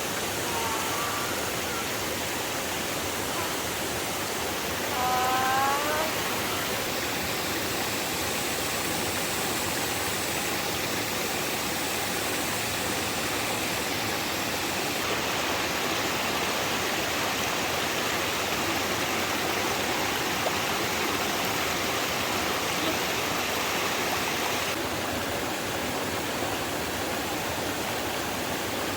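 Steady rushing noise of water, with a brief high call about five seconds in.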